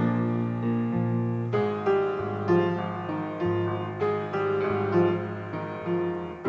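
Slow piano ballad with no singing: sustained piano chords that change every second or so.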